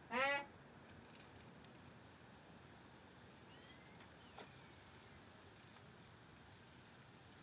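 A short animal call right at the start, about a third of a second long, then faint high chirps a few seconds later, over a quiet background with a steady faint high-pitched whine.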